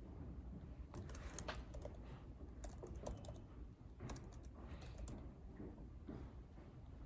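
Typing on a computer keyboard, faint key clicks coming in short bunches with pauses between them, over a steady low hum.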